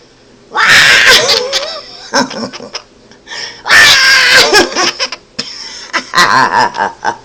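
Quaker parrot giggling like a baby in several loud bursts of laughter-like chatter.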